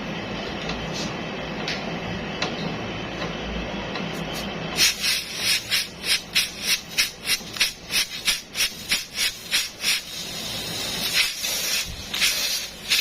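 Steady background noise. About five seconds in, rapid rhythmic scraping or rubbing strokes begin, about four a second, and turn irregular near the end.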